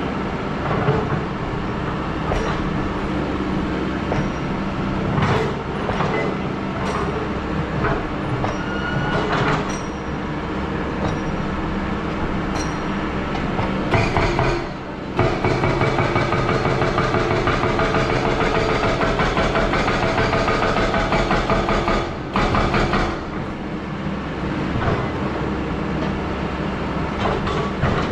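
Excavator diesel engine running steadily, with scattered metallic clanks and knocks. It grows louder and busier about halfway through, then eases back a few seconds later.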